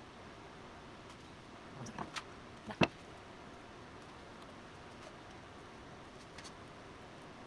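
A couple of light clicks, then one sharp knock a little before three seconds in, over a faint steady hiss.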